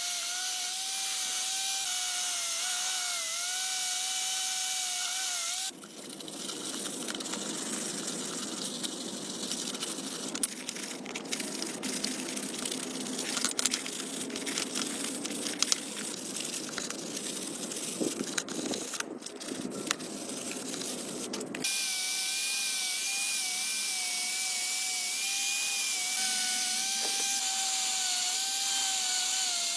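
A small electric power tool's motor running with a steady high whine that dips slightly under load. About six seconds in it gives way to scraping and scattered clicks of work on metal, and the whine comes back for the last several seconds.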